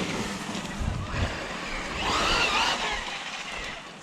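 Electric radio-controlled side-by-side (Losi RZR Pro R) driving over grass. Its motor gives a whine that rises and falls about two seconds in, and the sound dies down near the end.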